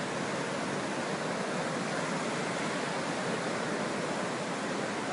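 Fast-flowing flash floodwater rushing steadily, an even wash of water noise.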